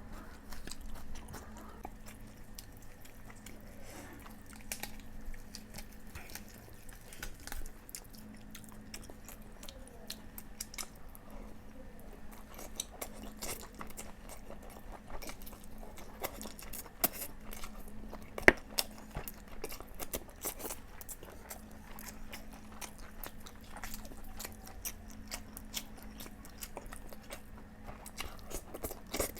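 Close-up eating sounds of a person chewing boiled eggs and chicken curry: irregular wet mouth clicks and smacks, with a sharper click about halfway through.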